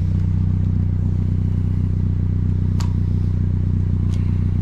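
2012 Honda Civic's four-cylinder engine idling steadily through a DC Sports aftermarket muffler, the exhaust freshly clamped with no leak left. Two faint clicks, near three and four seconds in.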